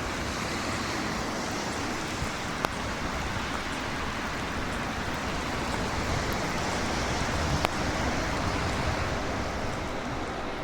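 Steady rushing noise with two faint clicks, one about two and a half seconds in and one near eight seconds.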